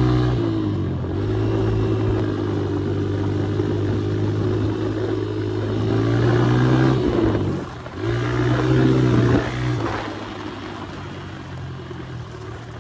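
Dirt bike engine running under throttle while riding, steady for long stretches, easing off briefly about a second in and again near eight seconds before pulling again, and quieter over the last few seconds.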